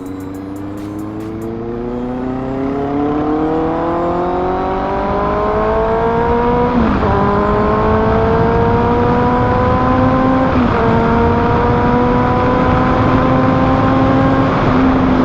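Motorcycle engine with an SC Project aftermarket exhaust accelerating, its pitch climbing steadily, with two quick upshifts about seven and eleven seconds in, then holding a steady cruise.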